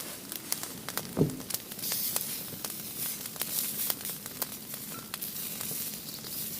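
Firewood burning in a fire pit, hissing steadily with many small sharp crackles and pops, and a single dull knock about a second in.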